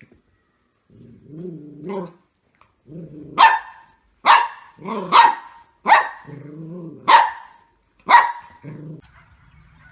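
A dog barking and growling: low growls between about six sharp barks, stopping near the end.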